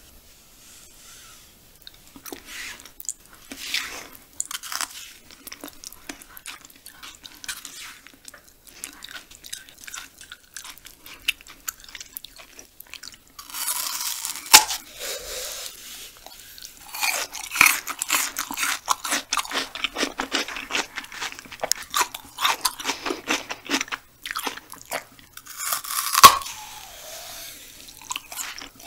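Close-miked biting and chewing of raw banana stem pith: wet, crisp crunches and mouth sounds, getting busier after the first couple of seconds. The loudest are two sharp crunches, about halfway and near the end.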